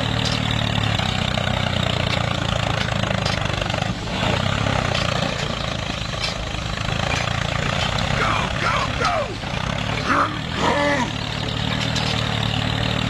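Homemade mini tractor's small motor running with a steady drone as it works to pull a loaded trolley out of mud. Voices call out briefly a few times in the second half.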